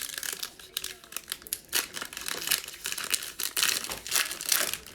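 Plastic wrapper of a basketball trading card pack being torn open and crinkled by hand, a dense run of irregular crackles.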